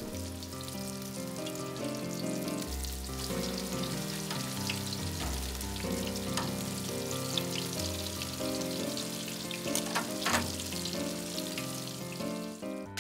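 Battered steaks frying in hot vegetable shortening in a cast iron skillet: a steady sizzle with scattered crackles. Background music with a slow-changing bass line plays over it.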